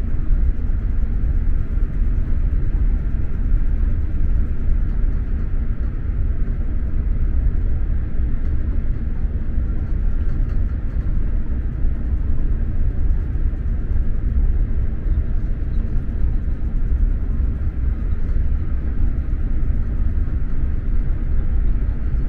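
SJ X2000 high-speed train running at speed, heard from inside the passenger car: a steady low rumble of wheels on the track and the running gear, without any break or distinct knock.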